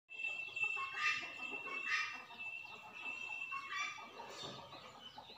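Birds calling, with short louder calls about one and two seconds in and again near the end, over a steady high-pitched tone.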